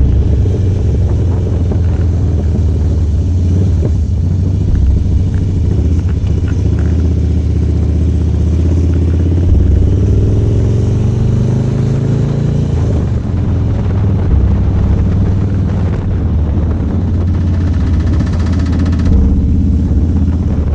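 Motorcycle engine running while riding, its pitch climbing slowly with speed through the middle and dropping suddenly at a gear change.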